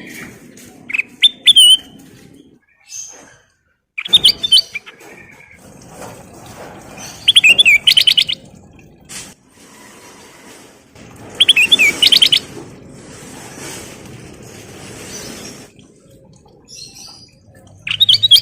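Kutilang emas, a bulbul, singing: bursts of loud, sharp chirping phrases with fast trills, coming every few seconds over a faint hiss.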